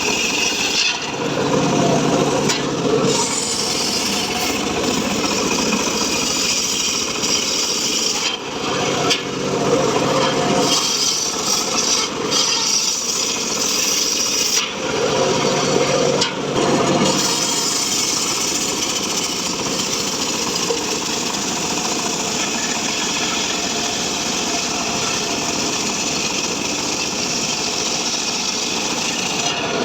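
Homemade engine-driven sawmill cutting through a mahogany log: the engine runs steadily under load while the blade rasps through the wood, with a few swells in the first half before it settles into an even run.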